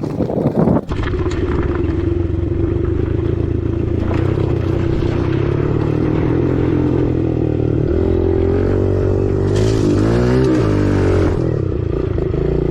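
Dirt bike engine running steadily, its pitch rising and falling in a few quick revs from about eight seconds in.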